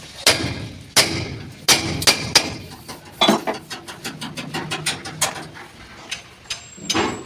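A hammer beating the sheet metal of a damaged truck cabin to work out a dent: a run of irregular, ringing blows, several hard ones in the first three seconds, then lighter taps and two more firm blows near the end.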